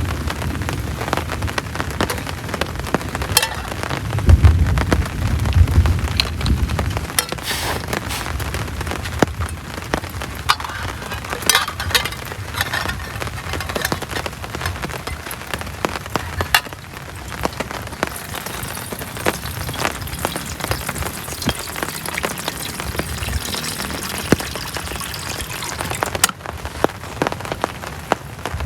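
Heavy rain falling steadily, with many sharp drop impacts. A low rumble rises and fades about four to seven seconds in.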